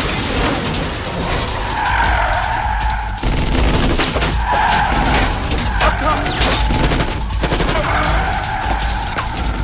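Car-chase film soundtrack: tyres screeching in several spells over a heavy engine rumble, with rapid gunfire and impacts.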